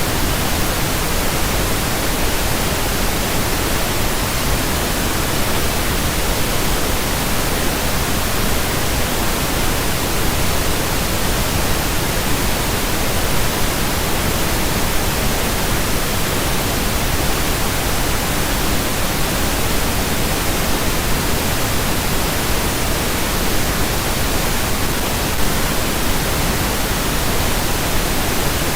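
Pink noise: a steady, even hiss spread across the whole range of pitch, with no change.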